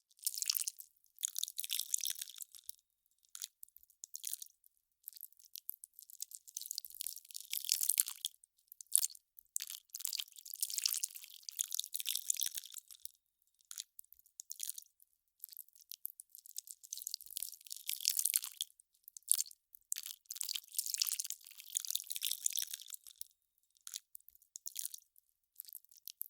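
Melting ice crackling: irregular runs of fine, high crackles and pops that swell and die away every second or two, with short quiet gaps between them.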